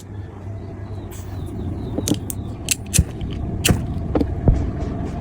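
A steady low rumble of road traffic, with a handful of sharp clicks and taps scattered through it.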